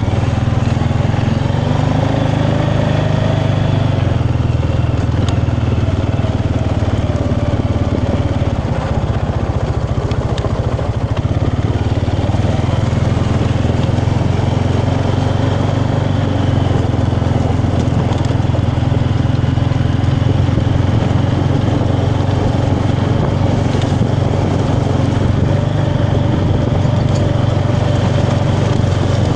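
Small motorbike engine running steadily while riding, its pitch wavering slightly with throttle.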